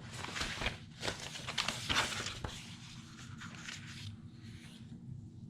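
Paper and cardstock being handled and shuffled: dry rustling with small taps and clicks, busiest in the first two and a half seconds, then quieter.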